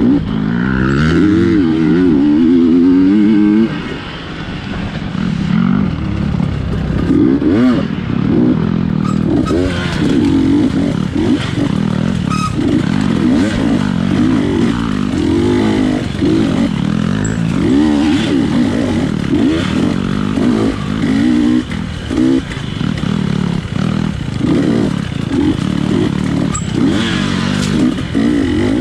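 A 250 cc GasGas dirt bike's engine is revved hard and eased off over and over as it picks through a tight woods race course. It holds high revs for the first few seconds, then drops, with scattered clatter and knocks from the bike over rough ground.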